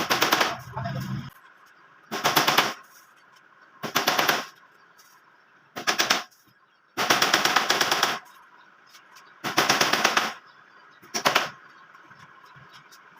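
Power tool rattling in seven short bursts, each a half second to a second long, with brief pauses between them.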